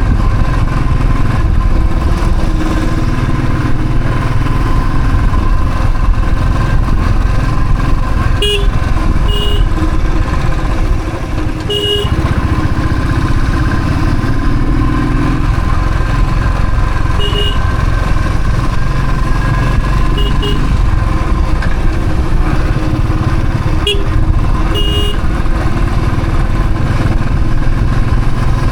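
Royal Enfield Thunderbird's single-cylinder engine running steadily under way, with road rumble. Short horn toots sound several times over it.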